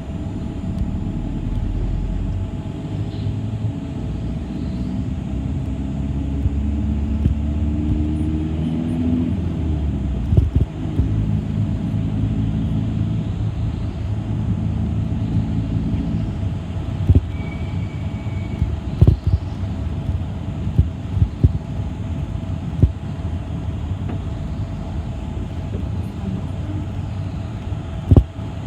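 City bus running, heard from inside the passenger cabin, its engine note climbing as the bus picks up speed in the first half. Occasional sharp knocks.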